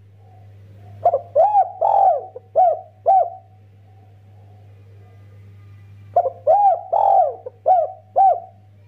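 Spotted dove (derkuku) cooing: two bouts of about five or six rapid, arched coo notes, one starting about a second in and the other about six seconds in, with a quiet gap between them.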